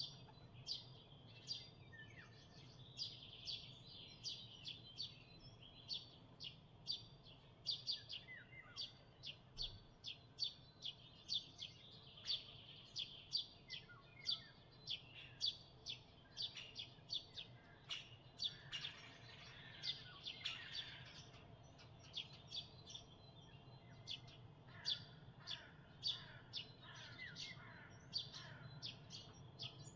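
Songbirds singing: one bird repeats a short, high, sharp note about twice a second throughout, while other birds sing fainter warbling phrases in the background.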